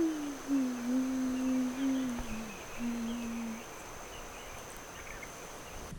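A person humming low, held notes: one long note sliding gently down, then a shorter, lower note about three seconds in. A faint, steady high-pitched whine runs underneath.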